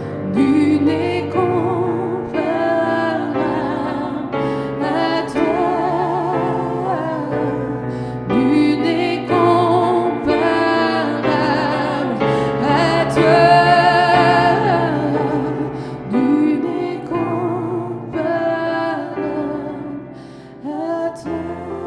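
Gospel song: a woman's voice singing with vibrato over piano or keyboard accompaniment.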